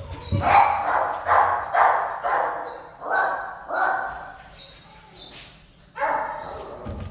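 Dog barking repeatedly, a quick run of about half a dozen barks, then one more after a short pause near the end.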